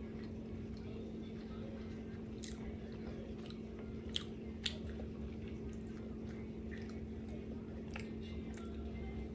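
A person chewing a soft, muffin-like snack cake, with a few faint short mouth clicks, over a steady low hum.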